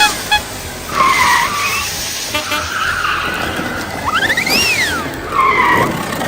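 Racing-car sound effect playing in a loop: an engine revving up in quick steps to a high whine and falling away, followed by a tyre skid, heard twice.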